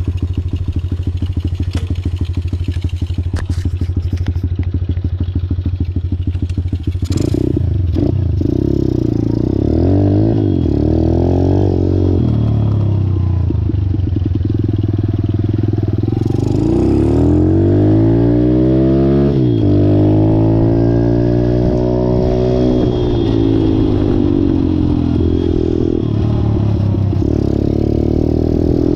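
Malcor XZ1 125cc pit bike's single-cylinder four-stroke engine idling with an even beat, then revved again and again from about seven seconds in, the pitch rising and falling with each turn of the throttle.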